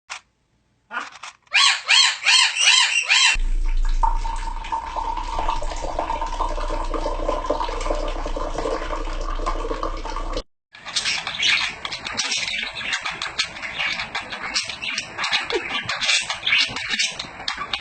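Birds calling in quick repeated chirps, then several seconds of a steady rushing, water-like noise with a low hum, then a long stretch of dense, rapid high-pitched chattering.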